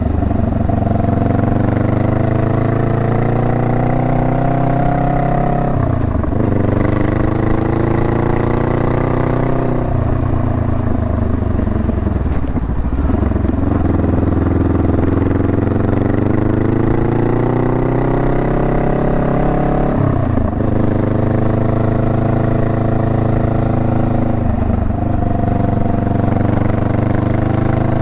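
Honda Rebel 500's parallel-twin engine running under way, its pitch climbing steadily as it pulls, with several sudden drops in pitch before it climbs again.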